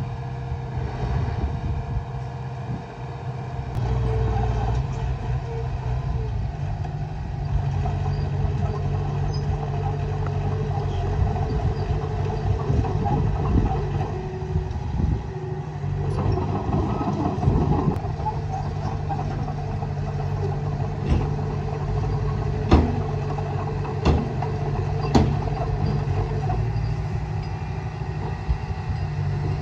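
Diesel engine of a Komatsu D20A crawler bulldozer running steadily under load, with a rattling clatter over the engine note. A few sharp knocks come in quick succession about three-quarters of the way through.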